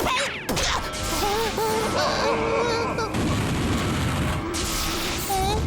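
Cartoon soundtrack: music with booming slapstick sound effects and short, wavering squeaky character vocalizations, opening with a falling whoosh.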